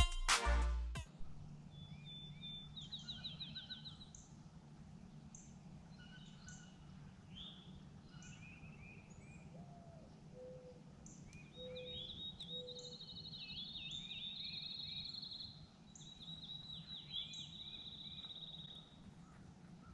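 Songbirds singing outdoors: several rapid high trills and chirps overlapping, over a faint steady low hum. A few soft low notes come in around the middle.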